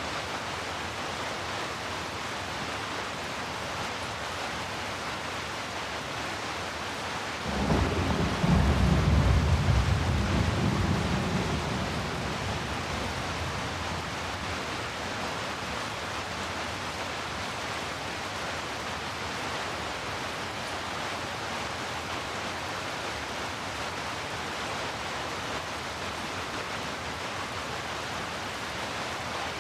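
Steady rain hiss, with a clap of thunder about seven seconds in that rumbles low for around five seconds before fading back into the rain.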